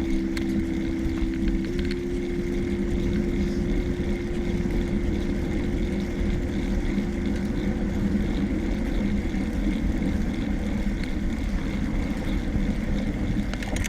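Steady wind rumble and road noise from a bicycle in motion, with a steady low hum running under it.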